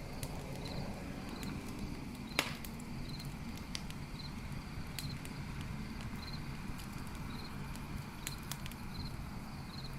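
Campfire crackling, with scattered sharp pops of burning wood, the loudest about two and a half seconds in, over a steady low rumble of the flames. Crickets chirp in short pulses about once a second.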